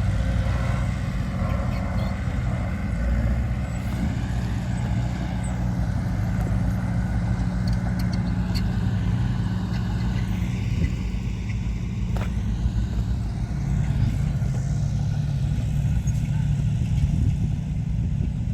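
Diesel engine of heavy earthmoving machinery running steadily at a constant low pitch, with a few light clicks over it.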